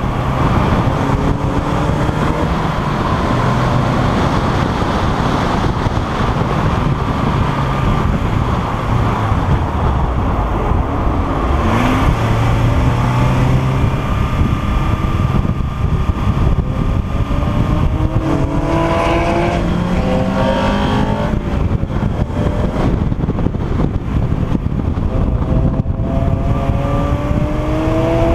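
Honda Integra DC2 race car's four-cylinder engine under way on track, its pitch climbing through each gear and dropping back at the shifts, several times over, with heavy wind and road noise throughout.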